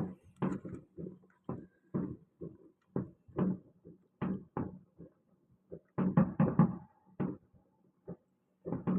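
Fireworks going off: a string of irregular bangs and pops, about two a second, with a quick cluster of them about six seconds in.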